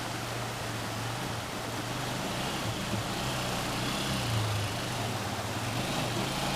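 A small engine running steadily, its pitch wavering a little, over a constant rushing noise.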